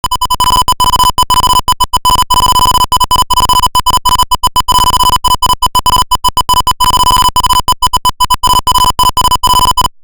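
Electronic buzzer of a distance-sensing circuit sounding one steady, high, loud beep tone, broken by many short, irregular gaps. It starts abruptly and cuts off just before the end.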